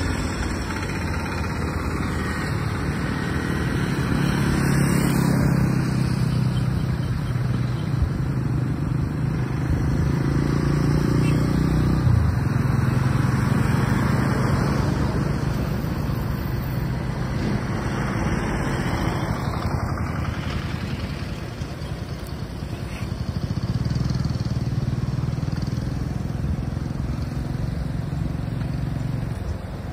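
Maruti Suzuki S-Presso's three-cylinder petrol engine running as the car creeps and turns slowly at low speed. Its low hum rises and falls a few times as throttle is given and eased off.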